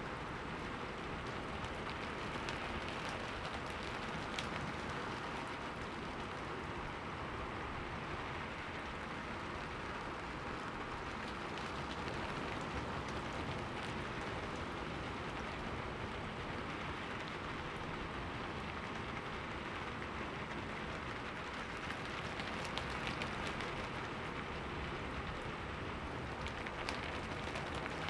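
Steady rain falling on a window, an even hiss with faint scattered drop ticks.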